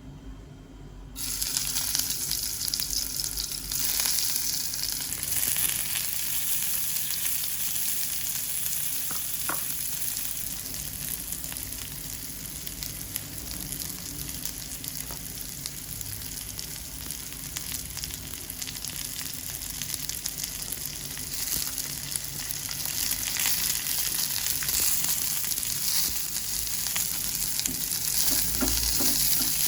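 Food sizzling in hot oil in a pan while being stirred. The sizzle starts suddenly about a second in, as food goes into the hot oil, and then runs steadily.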